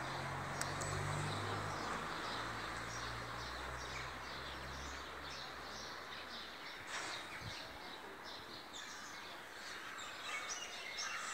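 Outdoor ambience of small birds chirping repeatedly over a steady background hiss, with a low hum that fades out a little past halfway.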